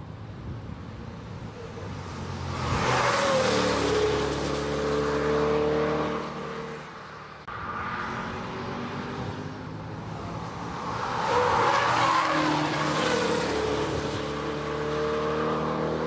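Mid-engine Chevrolet Corvette C8 prototype's engine at speed on the track, heard in two loud passes. In each pass the engine note dips and then climbs again under acceleration, with a sudden cut between the passes at about seven and a half seconds.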